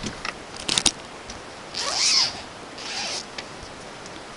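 Handling noise: a quick cluster of clicks a little under a second in, then two short rasping sweeps about two and three seconds in.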